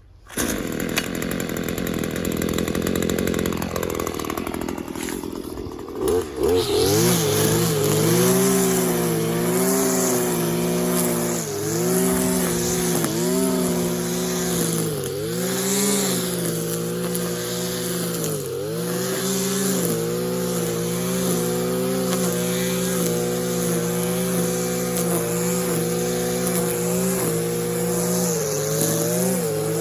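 Freshly rebuilt Stihl KM94 RC combi trimmer's two-stroke engine running, running well by its owner's account. For the first few seconds it runs with a rougher, lower note; about six seconds in it goes to high revs and holds there, the pitch dipping briefly every few seconds as the strimmer line cuts grass.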